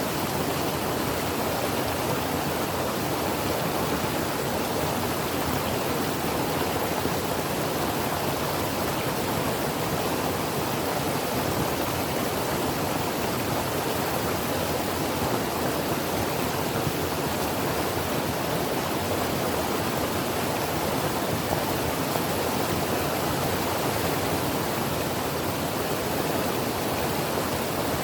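Creek water flowing in a steady, even rush, with no single splashes standing out.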